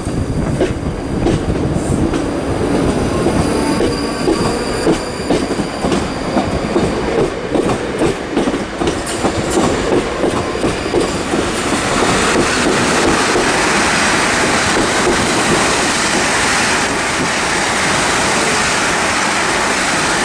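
South Western Railway electric multiple-unit trains moving through the station, their wheels clattering rhythmically over the rail joints. From about twelve seconds in, the clatter gives way to a steady rush as a train passes at speed.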